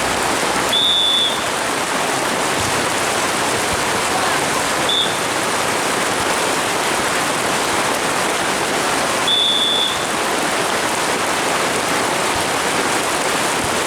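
Heavy rain pouring down steadily in a loud, even hiss. Three short, high whistle blasts sound over it, typical of a volleyball referee's whistle: a longer one about a second in, a brief one around five seconds, and another longer one near ten seconds.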